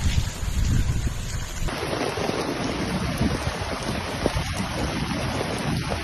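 Rushing floodwater with wind buffeting the microphone, a steady noisy rush over a heavy low rumble. The sound changes abruptly a little under two seconds in.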